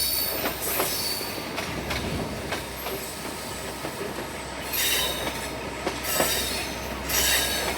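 Ride noise of a moving suburban passenger train: a steady rumble with clicks from the rails, and brief high-pitched wheel squeals about five, six and seven seconds in.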